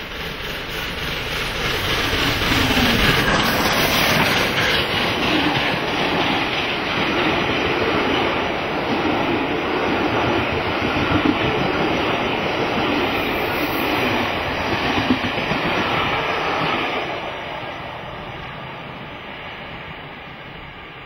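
Train hauled by steam locomotive 60163 Tornado running past at speed: the rumble and clatter of its wheels over the track. It swells to full loudness in the first few seconds, holds, then fades from about 17 seconds in as the train draws away.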